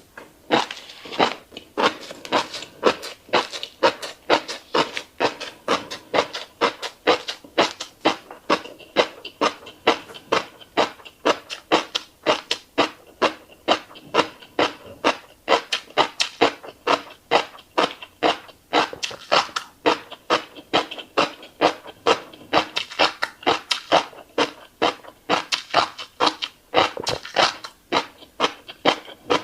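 Close-miked chewing of fish roe with wet, open-mouthed lip smacks, about three to four smacks a second, kept up steadily.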